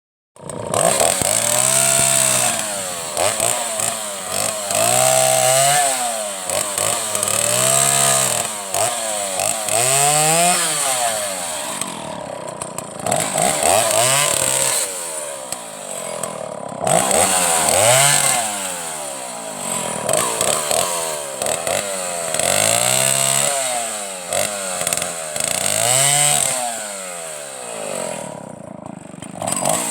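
Stihl 031AV two-stroke chainsaw running, its engine speed rising and falling over and over every two to three seconds as the throttle is opened and eased off. It runs cleanly: a good running saw.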